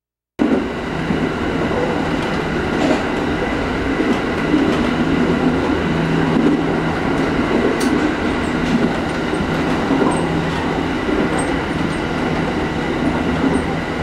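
Electric train running along the track: a steady rumble with faint scattered clicks from the wheels on the rails, cutting in suddenly about half a second in.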